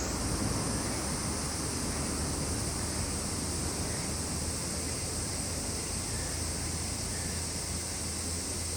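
Steady, high-pitched drone of a summer insect chorus, with a low steady hum beneath it.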